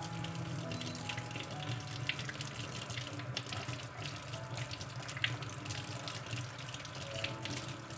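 Kitchen tap running steadily into a sink, with small clicks and knocks of something being rinsed or handled under the water.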